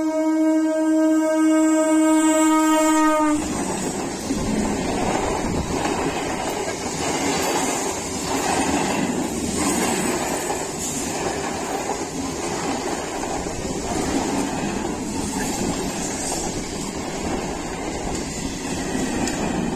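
Electric suburban local train sounding one long, steady horn blast that stops abruptly about three seconds in, followed by the train passing close by at speed: a steady rumble of wheels on rail with a rhythmic clatter over the joints.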